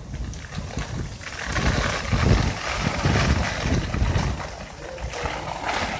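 Strong storm wind buffeting the microphone in irregular gusts, a low rumble under a broad hiss.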